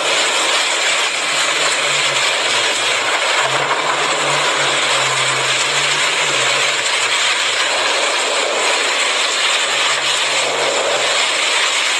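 Heavy rain pouring down in a steady, loud hiss, with a low hum that comes and goes underneath.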